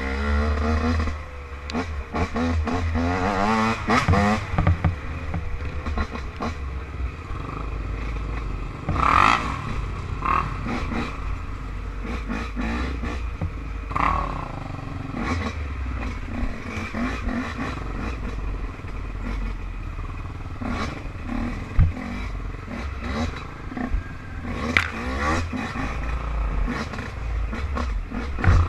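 Off-road motorcycle or ATV engine running on a ride, revving up with rising pitch in the first few seconds, then pulling steadily with a low rumble, rattles and scattered knocks; one sharp knock about 22 seconds in.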